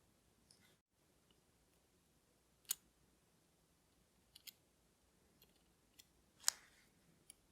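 A few faint, sharp clicks of watchmaker's tools and small parts against a watch movement during disassembly, spaced irregularly, the loudest about six and a half seconds in.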